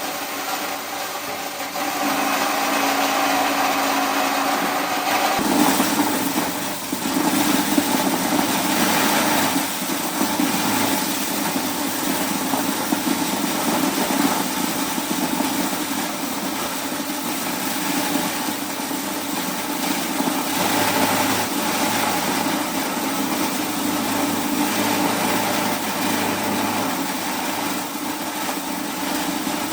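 Small engine of a corn shelling machine running steadily. About five seconds in, its pitch rises a little and it gets louder, then it runs on evenly.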